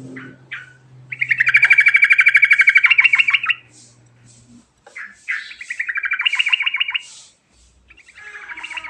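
Yellow-vented bulbul (trucukan) singing in three bursts of fast trilled chattering, about ten notes a second. The first burst comes about a second in and is the longest; the last starts near the end.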